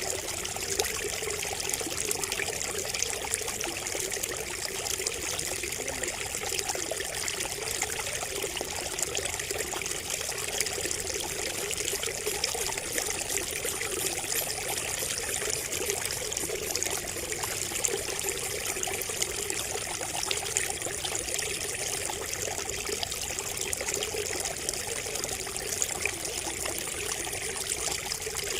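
Water trickling and splashing steadily from a bamboo spout, with many small drips and splashes.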